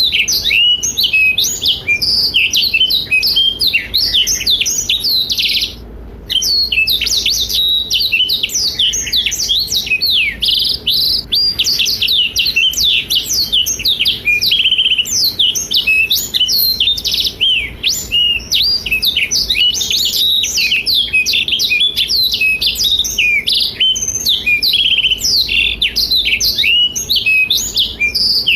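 Black-throated canary (blackthroat) singing an unbroken, fast run of high twittering notes and trills, with a brief gap about six seconds in.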